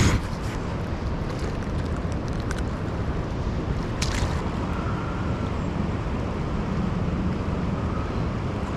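Steady rushing roar of a big waterfall, with a sharp click at the very start and a fainter click about four seconds in.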